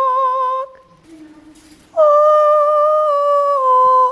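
A woman singing long held notes with a slight waver in pitch. The first note ends less than a second in; after a short pause a higher note starts about halfway through and is held, stepping down a little near the end.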